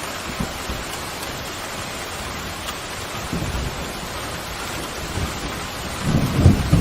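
Steady heavy rain with thunder: a low rumble builds about halfway through and swells loudest near the end.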